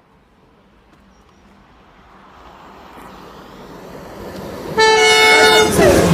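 InterCity 225 electric express approaching at speed, its rushing noise building steadily, then sounding one long horn blast whose pitch drops as the train passes.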